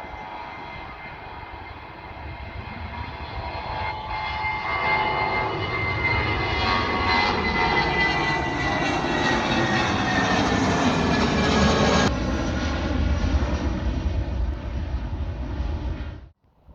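Airliner engines running loud, growing louder over several seconds with a deep rumble under a high whine that slowly drops in pitch, then cutting off abruptly near the end.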